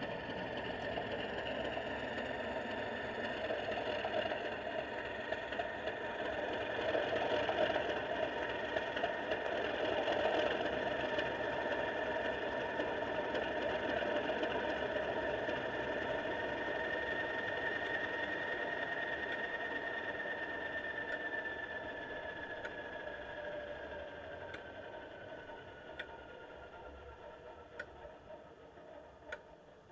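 Accurascale Class 37 00 gauge model diesel locomotive running on the layout, a steady motor-and-wheel hum with a whine that falls in pitch as the sound fades away over the last several seconds. Light clicks come about once a second in the second half.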